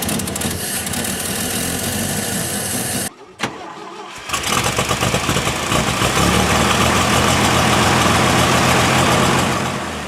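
An old engine running, cut off abruptly about three seconds in. After a brief quieter stretch, an engine fires up and runs loud and steady.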